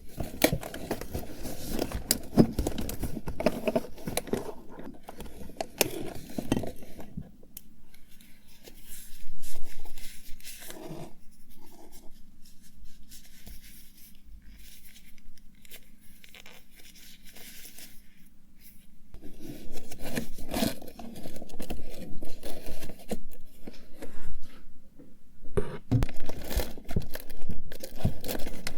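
Rustling, crinkling and scraping of items being handled and rummaged through, with scattered small clicks and taps. It quietens through the middle and picks up again about two-thirds of the way in.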